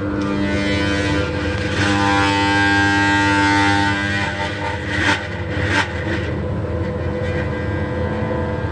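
Exhaust fan running with an abnormal noise: a steady hum, with a squealing whine that swells for a couple of seconds and then fades. Two sharp knocks come a little more than halfway through.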